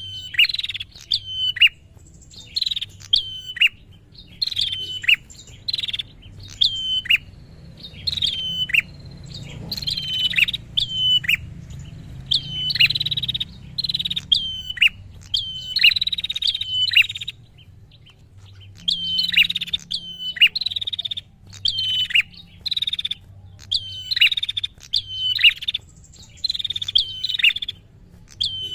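Prinia (prenjak) calling persistently: loud, sharp chirps that drop quickly in pitch, repeated in quick clusters of two to four notes with short gaps between clusters. A faint low hum sits beneath.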